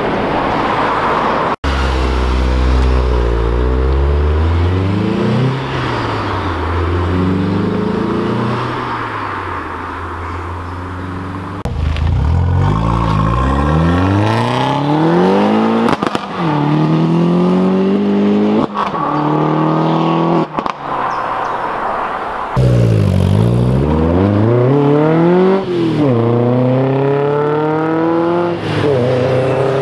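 A string of modified cars accelerating away one after another, their engines revving up in rising sweeps that drop back at each gear change. The clips are joined by several abrupt cuts, each bringing in a different car.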